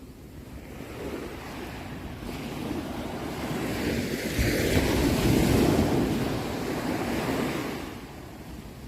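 Ocean waves breaking on a shore: one wave swells, crashes about halfway through and washes back out.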